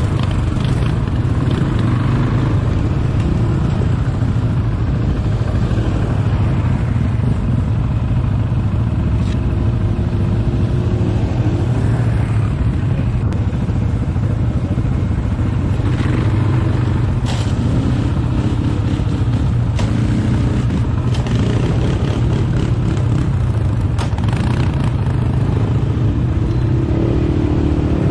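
ATV engine running steadily while the quad is ridden, with a few scattered knocks and rattles.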